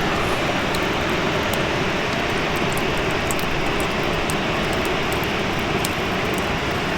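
Wood fire crackling: a steady hiss with frequent small, sharp pops.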